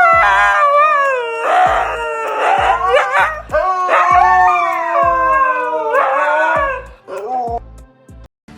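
A dog howling: a string of long, wavering howls that slide up and down in pitch. The howls stop shortly before the end, over a low thumping beat.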